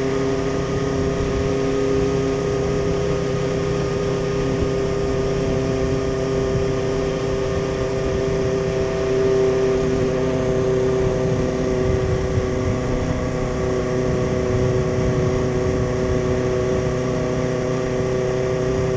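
A 1976 Honda CB400 Four Super Sport's air-cooled inline-four engine running at a steady cruise under way, holding an even tone with a rush of road and wind noise underneath.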